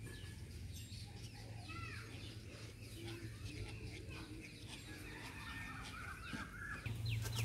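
Faint bird calls: scattered chirps and short rising and falling notes. Near the end a fast run of repeated downward-sweeping notes begins.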